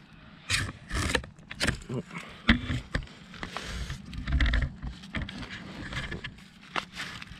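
Irregular rustling and scraping with several sharp knocks, as someone moves about and handles things inside a brush survival shelter.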